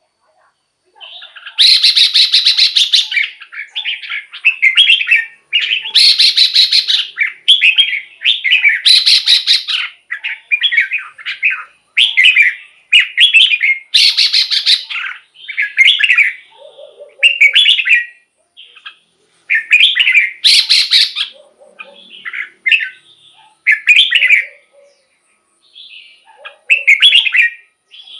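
Red-whiskered bulbul singing: a run of short, loud, whistled phrases of a few notes each, one every second or two. A few of the phrases are harsher and hissier.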